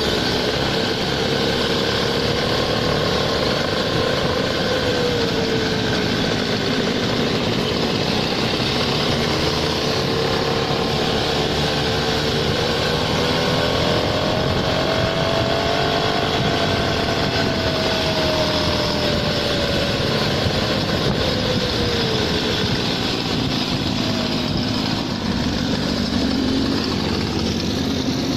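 A small-engine motor scooter running while it is ridden. Its engine note rises gradually about halfway through, holds, then drops back a little after two-thirds of the way.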